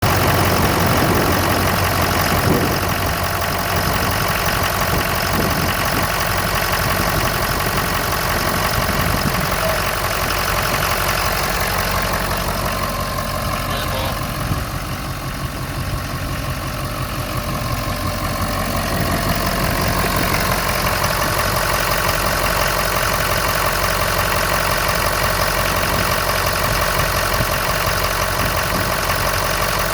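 Ford 6.7L Power Stroke V8 turbodiesel engine from a 2012 F250, idling steadily. It goes slightly quieter for a few seconds about halfway through.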